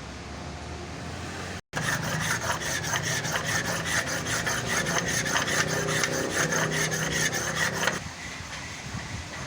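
Hand tool worked in rapid back-and-forth strokes against an engine part, a loud rhythmic scraping of several strokes a second. It starts suddenly just under two seconds in and stops about eight seconds in, leaving a steady fan-like hum.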